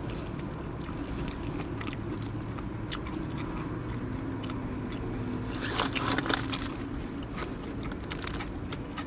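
Person chewing and biting food close to the microphone, wet and crunchy mouth noises with louder crunching bites about six seconds in, over a steady low hum.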